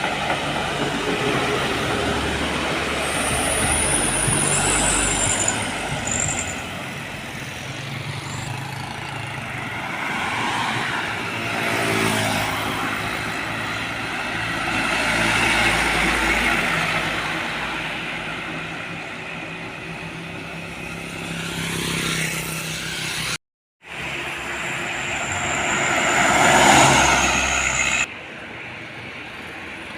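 Heavy diesel trucks passing one after another on a road, engine and tyre noise swelling and fading, with a high brake squeal a few seconds in and again near the end. The sound breaks off abruptly twice, where the footage is cut.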